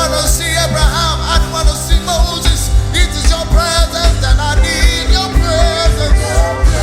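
Live church worship music: a voice singing a wavering, ornamented melody over held bass notes and a steady drum beat.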